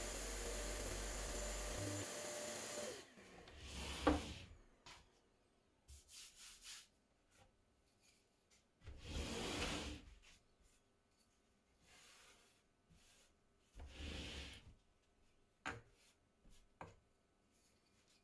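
Homemade spindle sander's washing-machine motor running steadily, then cut off about three seconds in, followed by a sharp knock. After that come several separate brief spells of wood rubbing, with quiet between them.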